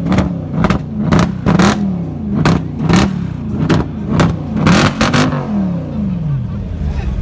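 Mercedes-AMG V8 being blipped hard and repeatedly, the revs rising and falling about twice a second, with sharp exhaust cracks and pops on the overrun. It settles back toward idle near the end.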